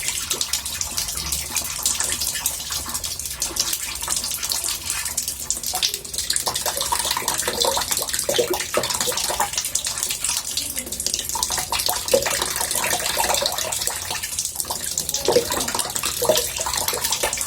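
Water running into a bathtub: a steady splashing rush with small bubbling gurgles throughout.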